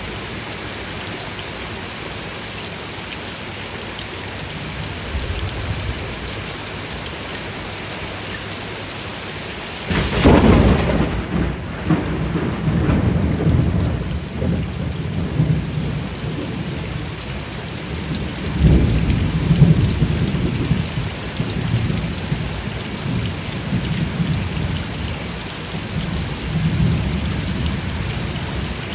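Steady heavy rainfall, joined about a third of the way in by a sudden clap of thunder that keeps rumbling through the rest, swelling again about two-thirds in.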